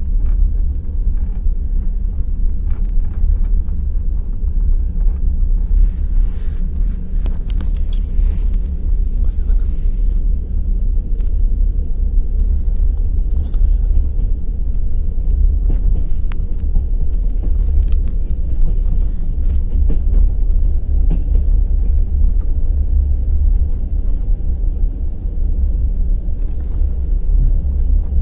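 Passenger train running at speed: a steady low rolling rumble of the wheels on the track, with a spell of sharp clicking and clatter about a quarter of the way in and scattered clicks after.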